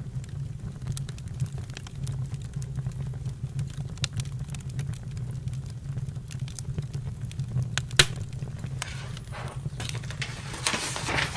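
Campfire crackling, with many small pops over a steady low rumble. One sharp, louder pop comes about eight seconds in, and a short hissing surge follows near the end.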